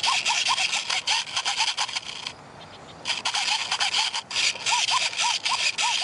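Fast, rhythmic scraping strokes, like sawing or rubbing, many with a short squeak. The strokes stop for just under a second midway and then resume.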